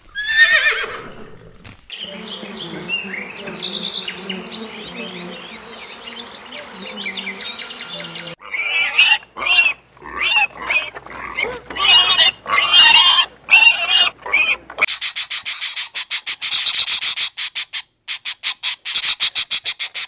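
A horse's whinny falls in pitch at the start. From about eight seconds in, pigs squeal in short, separate, repeated calls. Near the end a rapid high chatter takes over.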